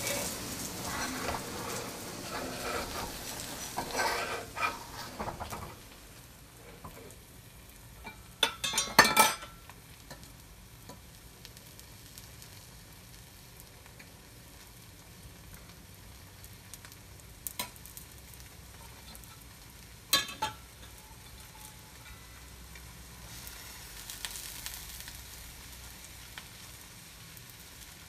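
Food frying in a hot pan: a loud crackling sizzle for the first few seconds that settles into a quieter steady sizzle, broken by a few sharp clatters, the loudest about nine seconds in.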